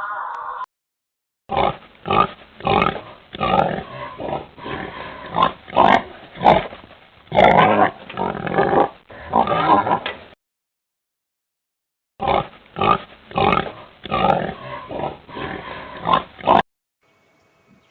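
Pigs grunting and oinking in quick, irregular bursts, in two runs separated by a pause of about two seconds.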